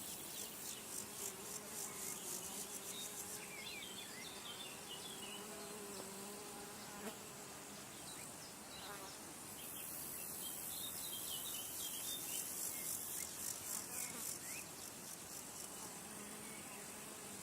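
Insects chirping outdoors in a fast, high-pitched pulsing rhythm that comes in two spells, over faint scattered bird chirps.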